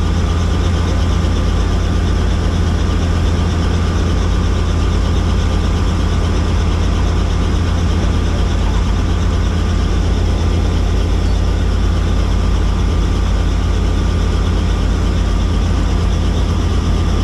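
Helicopter running steadily: a loud, unbroken low drone with a faint steady high tone above it.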